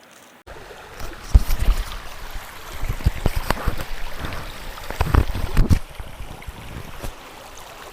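Creek water running steadily, with irregular low thumps and knocks close to the microphone.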